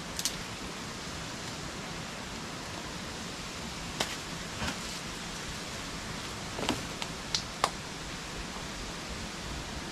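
Steady rush of flowing water from a forest waterfall, with a few short rustles and knocks about four seconds in and several more between about six and eight seconds in.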